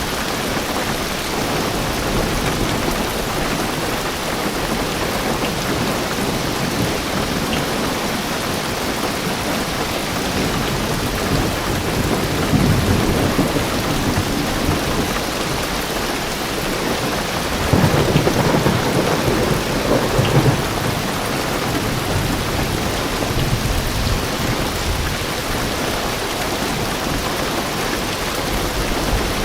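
Heavy rain drumming steadily on a car roof and windows, heard from inside the car. Thunder rumbles twice: about twelve seconds in, and again in a longer roll a few seconds later.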